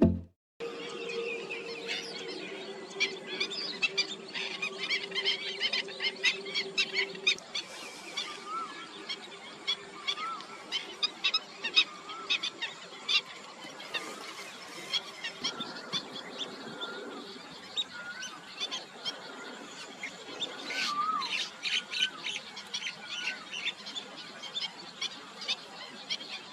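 Many birds chirping and calling in quick, overlapping short notes, with some lower rising-and-falling whistled calls, over a faint steady low hum that fades out about two-thirds of the way through.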